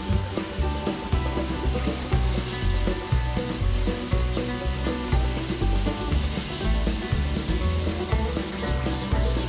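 Handheld electric sander running steadily against the edge of a hardwood slab tabletop, a continuous abrasive hiss. Background music with a stepping bass line plays underneath.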